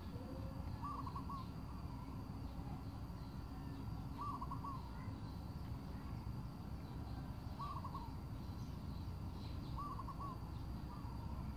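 A bird calling repeatedly, each call a short phrase of a few quick notes, five times at intervals of two to three seconds, over a steady low background noise.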